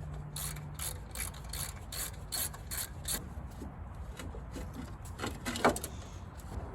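Hand ratchet wrench clicking in an even series of about three clicks a second while bolts are worked loose, then sparser clicks and a louder metal clank about five seconds in.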